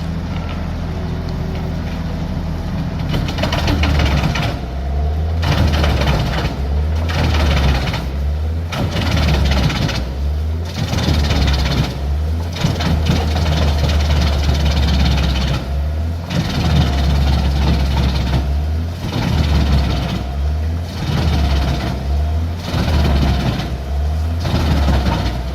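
Heavy diesel-driven industrial wood chipper or grinder running under load as it feeds and shreds timber. The engine drone holds steady while loud surges of chipping noise come and go every second or two.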